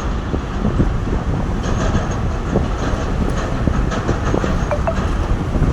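Motorcycle engine running under way, with a steady low rumble and rapid uneven pulsing, mixed with wind on the microphone.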